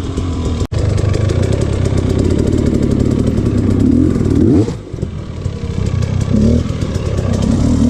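Dirt bike engine running and revving under throttle blips, the pitch rising sharply about four and a half seconds in and then falling back.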